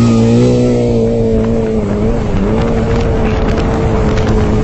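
Motorcycle engine running at steady high revs, with a slight dip and recovery in pitch about two seconds in.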